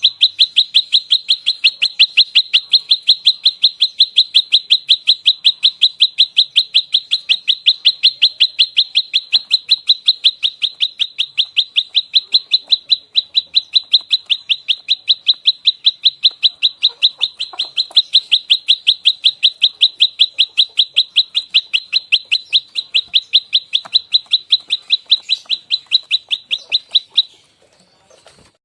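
A prenjak lumut gives its rapid-fire fighting call: a fast, unbroken run of sharp, high chirps at an even pace. The run breaks off about a second before the end.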